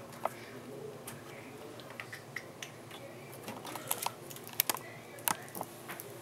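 Irregular light metallic clicks and taps as thumb screws are set into a PC case's expansion-slot bracket to hold a graphics card, more frequent in the second half.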